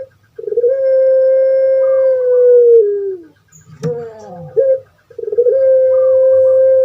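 Puter pelung dove (Barbary dove, Streptopelia risoria) cooing: a long drawn-out coo held on one pitch for nearly three seconds and dropping at its end, then a few short gliding notes and a second long coo held the same way.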